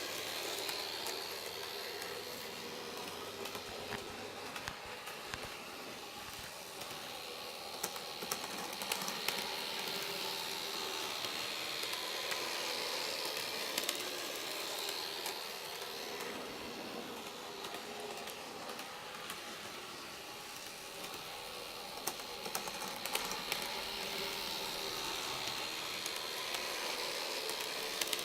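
MODEMO N-scale model train running on its track: a steady motor whine and hiss with small clicks from the wheels, swelling and fading several times as it comes near and goes away.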